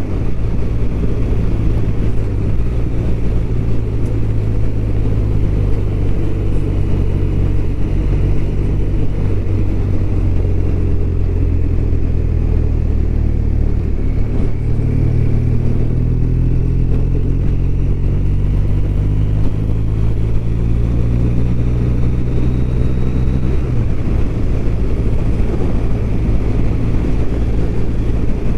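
BMW R1200RT's flat-twin boxer engine running under way, with the rush of riding noise. The engine note holds steady, then steps in pitch a few times as the throttle or gear changes.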